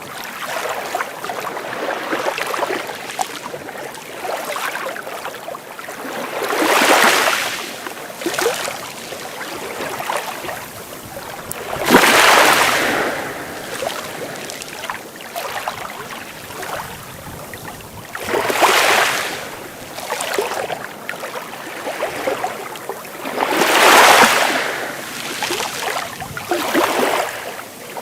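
Sea waves breaking on a shore: a steady wash of surf with a wave surging up and falling away about every five to six seconds, four times.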